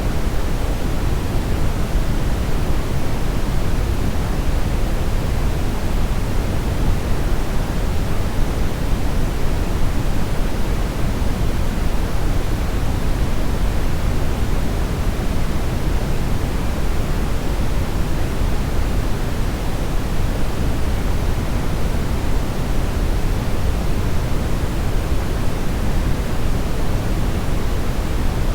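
Steady synthetic brownish noise: an even, deep rushing hiss weighted toward the low end, unchanging throughout.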